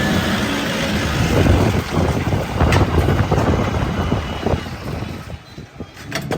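Heavy diesel machinery running with a dense rumble and scattered clattering knocks, one sharper knock a little under three seconds in. The sound grows fainter over the last second or so.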